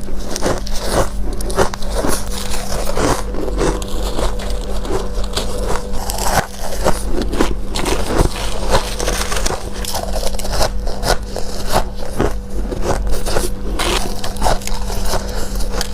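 Close-miked biting and chewing of freezer frost: dense, rapid crunching and crackling of icy frost chunks, one crunch after another, over a steady low hum.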